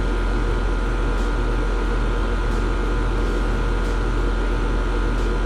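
Air-conditioning condensing unit with a newly replaced compressor running steadily: a constant low hum with a few steady tones over an even rush of air.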